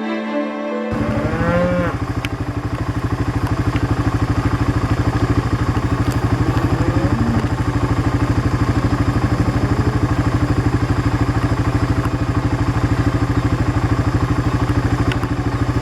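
Background music ends about a second in. A small vehicle engine then runs steadily with an even, fast pulse.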